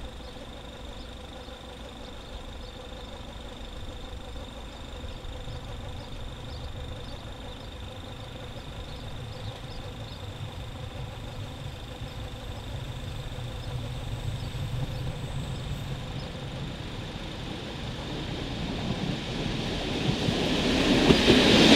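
HŽ series 7122 diesel railcar approaching: a low rumble that builds slowly, then grows sharply louder over the last two seconds as the train reaches the camera.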